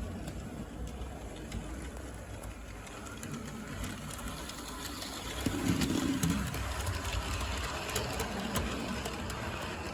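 OO gauge model locomotive running along the layout's track: a steady electric motor whirr with light clicking.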